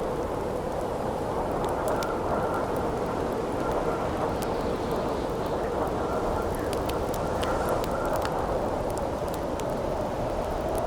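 Wind howling steadily, with the frequent sharp crackles and pops of a wood campfire scattered over it.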